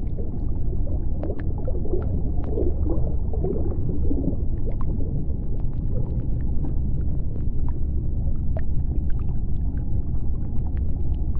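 Underwater sea ambience: a deep steady rumble with scattered sharp clicks and a faint steady hum, and a warbling, gurgling sound about two to four seconds in.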